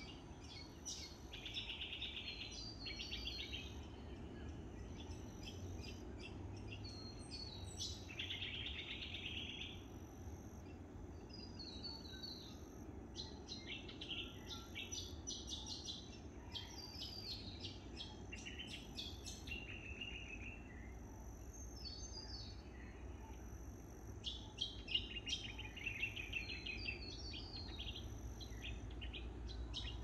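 Several birds calling, with a steady mix of short chirps, rapid trills and whistled notes, busiest about halfway through and again near the end. Beneath them there is a steady low background rumble and a faint high pulse that repeats about once a second.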